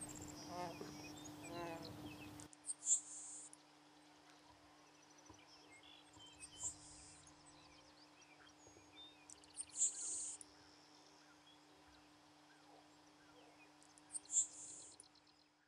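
Le Conte's sparrow singing: four short, very high, thin insect-like buzzes, each with faint ticks around it, repeated about every three to four seconds.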